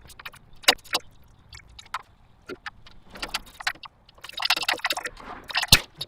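Hand tools and metal parts clinking and clattering during engine-removal work: scattered sharp clicks, a busier stretch of clatter about two thirds of the way in, and one loud knock near the end.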